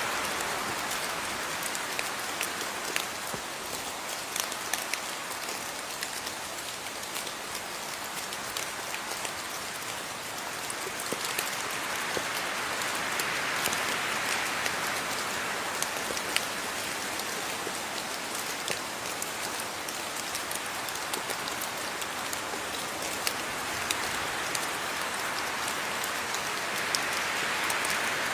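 Steady rain falling: an even hiss dotted with many small drop ticks, swelling slightly and easing twice.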